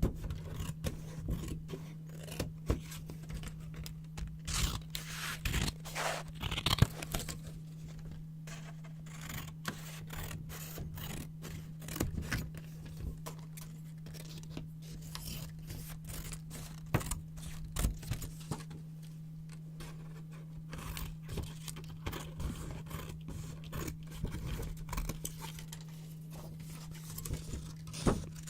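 Scissors snipping through sheets of yellow paper, with quick crisp cuts and paper crackling and rustling in irregular clusters over a steady low hum.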